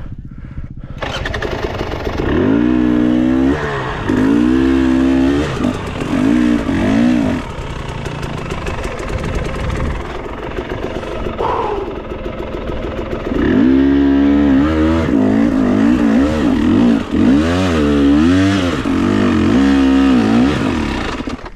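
Dirt bike engine revving in repeated throttle bursts, pitch rising and falling again and again, starting about a second in and easing off for a few seconds in the middle.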